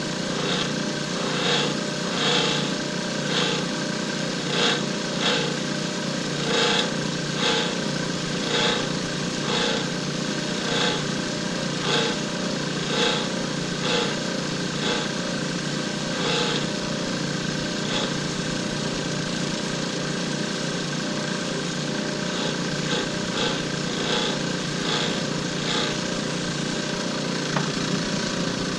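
Lathe motor running steadily while a turning tool cuts down a cast shift-knob blank, with regular scraping strokes about once or twice a second; the machine spins down near the end.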